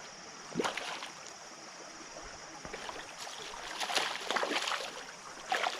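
Splashing and sloshing of creek water as a hooked bass is fought at the surface, in uneven bursts that grow busier in the second half, over the steady rush of the creek.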